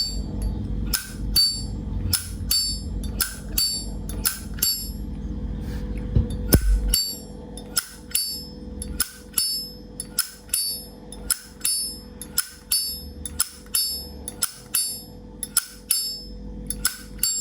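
Vintage 1965 Zippo lighter's hinged lid flipped open and snapped shut over and over: sharp metallic clicks, each with a bright ringing ping, about one to two a second. Collectors judge a Zippo by this click, and this one's is called 'very good'.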